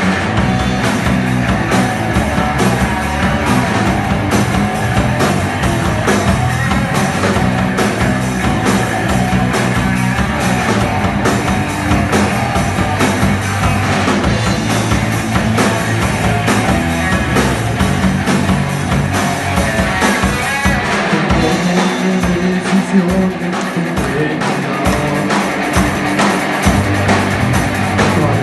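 A live rock band playing an instrumental passage on drum kit and electric guitar, loud and dense. The bass and kick drop out from about 21 seconds in and come back near the end.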